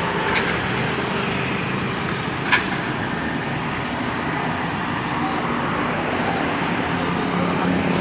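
Engine of a large intercity bus running as it manoeuvres, over steady road-traffic noise, with a sharp click about two and a half seconds in.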